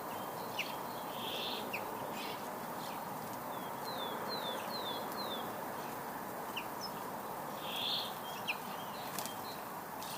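Small songbirds chirping: scattered short high calls and chips, including a quick run of four descending notes about halfway through, over a steady background hiss.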